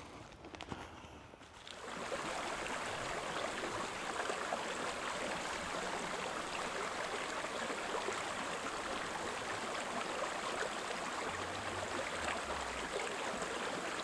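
A few footsteps on dry leaves, then from about two seconds in the steady rush of a flowing creek.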